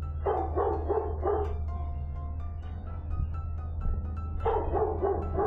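A dog barking in two quick runs of several barks, one early and one near the end, over steady background music.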